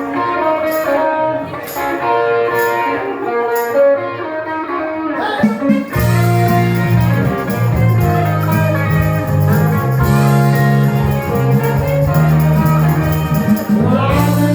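Live band music: an electric guitar playing over light, regular ticks about twice a second, then about six seconds in the full band comes in with a heavy bass line.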